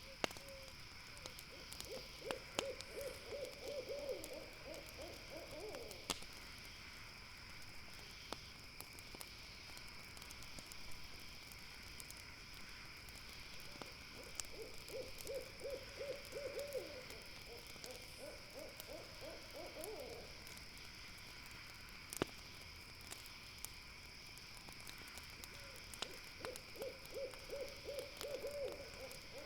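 An owl giving a trilled call of rapid pulsed notes, repeated in several runs of two or three seconds, over a campfire's crackling with occasional sharp pops and a steady high insect chorus.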